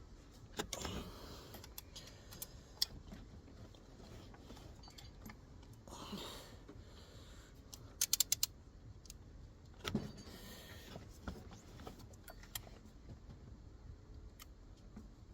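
Metal hand tools and parts clinking and knocking during work on a car's belt drive, with a quick run of sharp clicks about eight seconds in.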